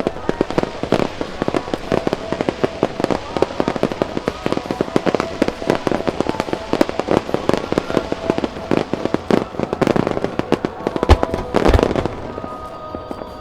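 Dense barrage of aerial firework shells bursting in quick succession, a rapid run of cracks and bangs, with two heavy, deep booms about eleven seconds in. The bursts then stop, leaving music from the show's sound system.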